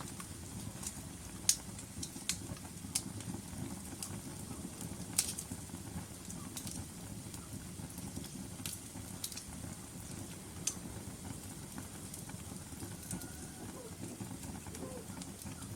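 Wood logs burning in a fireplace: a low steady rumble of flames with irregular sharp crackles and pops, the loudest pop about a second and a half in.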